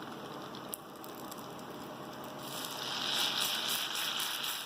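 Achappam batter frying in hot coconut oil: a faint sizzle that swells into a louder, crackling sizzle about halfway through as the batter-coated mould goes into the oil.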